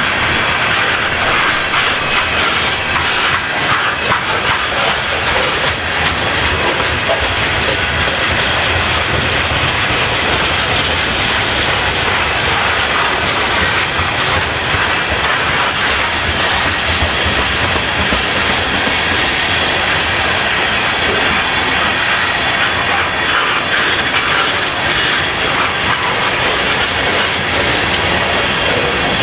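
Freight train rolling past at close range: a steady, loud clatter of steel wheels on the rails, with repeated clicking as the cars' wheels cross the track joints.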